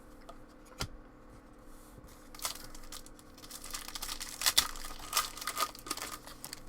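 Crinkling and tearing of trading-card packaging being handled, with a single click just under a second in and the crinkling busiest in the middle.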